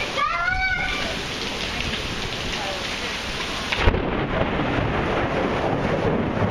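Heavy rain pouring down in a severe thunderstorm, a steady loud hiss of the downpour. A brief wavering tone sounds near the start, and a single thump about four seconds in.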